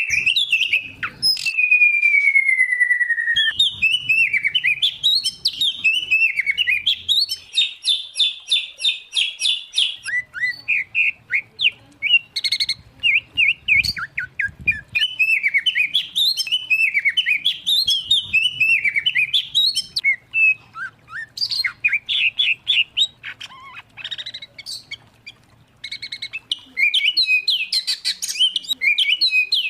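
Songbird singing a loud, varied song of whistles, trills and rapid chattering phrases, with a long falling whistle near the start and abrupt changes where recordings are spliced together.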